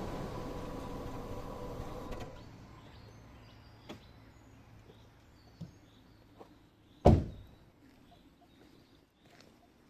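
Suzuki Ignis's 1.3 L M13A inline-four engine running steadily, then cut off about two seconds in. A few small clicks follow, then a single loud thump about seven seconds in.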